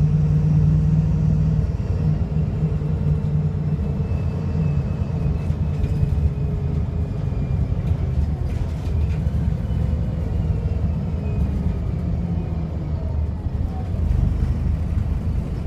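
VDL SB200 bus's diesel engine running under way, a steady low drone that eases a little about two seconds in, with a faint falling whine from the drivetrain. The uploader describes this engine as misfiring and very unhealthy.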